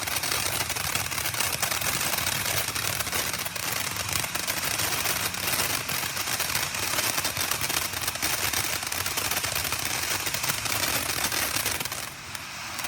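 Behemoth Burger firework fountain burning with a dense, continuous crackle. It dies down near the end.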